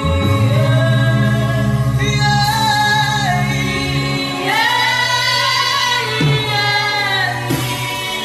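A man humming a slow worship melody without words, long held notes that slide from one pitch to the next, over a steady low drone.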